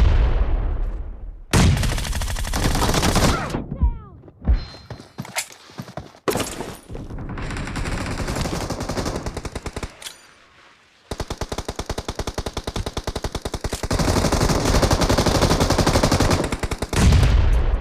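Video-game gunfire in a shooter match: loud shots and bursts in the first half, then long strings of rapid automatic fire from about eleven seconds in.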